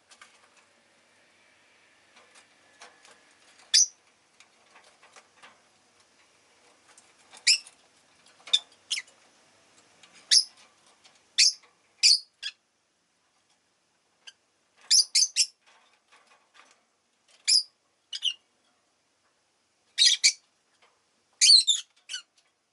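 Rosy-faced lovebirds giving short, sharp, high-pitched chirps, about a dozen spaced irregularly, with faint small clicks between the calls.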